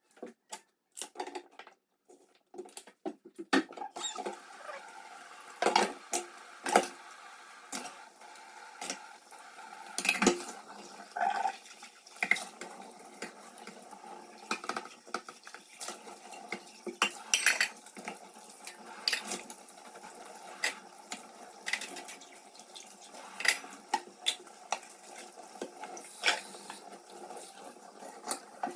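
Dishes, pots and cutlery clinking and clattering in irregular knocks as the kitchen is tidied up, over a steady hiss that starts about four seconds in.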